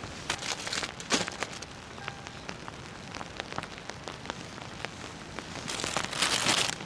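Rain pattering steadily, with many separate drops ticking. There are two louder rushing surges, one about a second in and one near the end.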